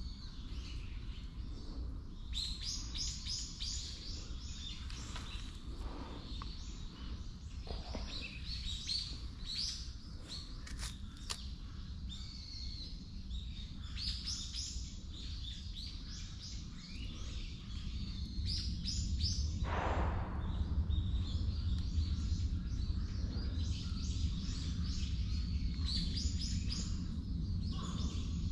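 Wild birds calling: several runs of quick, high chirps, over a steady low rumble that grows louder about two-thirds of the way in.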